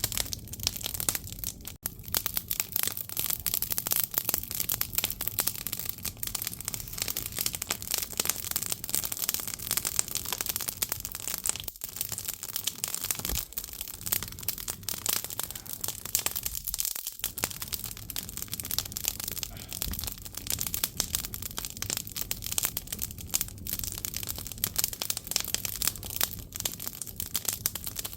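Firewood burning in a Korean agungi, a traditional firebox, crackling and popping with a dense, unbroken run of small crackles.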